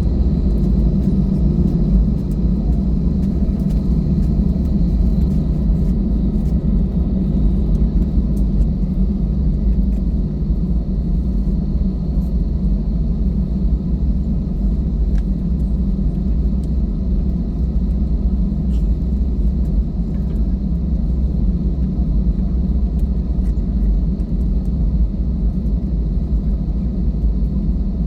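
Airbus A320 cabin noise: a steady low rumble from the engines and airframe, with a faint high whine over it.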